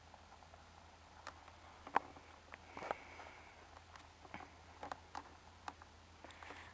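Quiet background with a low steady hum and a few scattered faint clicks and ticks, the sharpest about two seconds in.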